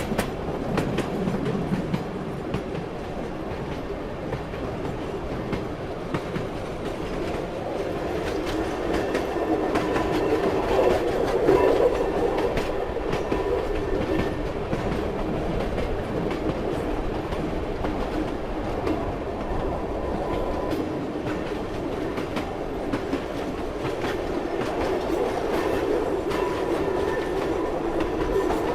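Train running along the rails: a steady rumble with the clickety-clack of the wheels over the rail joints, swelling louder about ten seconds in.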